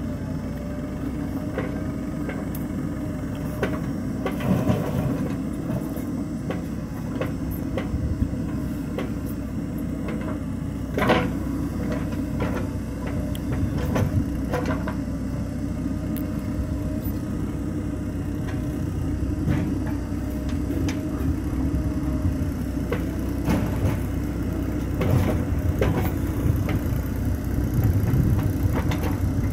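Diesel engine of a JCB 3DX backhoe loader running steadily with a low rumble, with scattered knocks and clanks from the working machine, the loudest about eleven seconds in.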